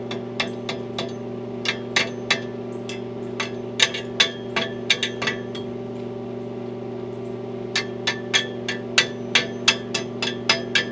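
Hammer striking steel, ringing metallic blows while hooks are knocked into position on a tractor's counterweight frame: irregular strikes at first, a pause of about two seconds, then a quicker run of about two to three blows a second near the end. A steady low hum runs underneath.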